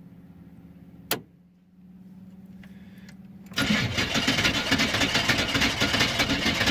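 A sharp click about a second in, then about three and a half seconds in the 6.2 L V8 diesel of an old military pickup cranks and catches on a cold start, running with a loud, dense clatter.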